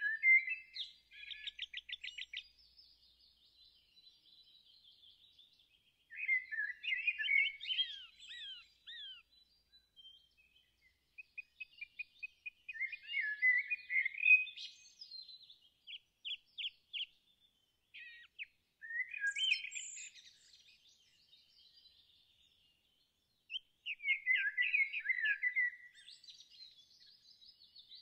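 Songbirds singing in separate phrases every few seconds: quick chirps, down-slurred whistles and rapid trills, with short silent gaps between phrases.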